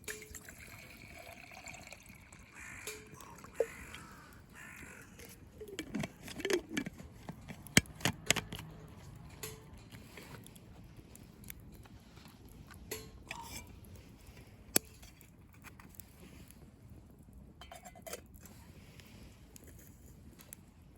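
Small wood campfire being tended: scattered sharp crackles and clicks, a few of them loud, with several short bird calls in the background.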